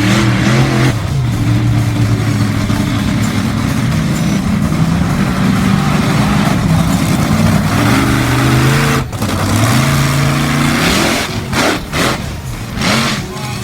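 Monster truck engine running hard and revving. Its pitch climbs near the start and holds, climbs again about eight seconds in, then falls away. Near the end it comes in short, choppy blips.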